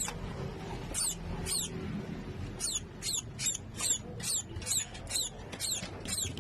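Featherless nestling bird chirping: about a dozen thin, high cheeps, each falling quickly in pitch, coming faster in the second half.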